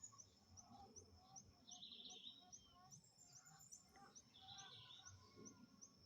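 Faint countryside ambience: an insect chirping in a steady rhythm, a little over twice a second, over a steady high hum, with a few short bird calls.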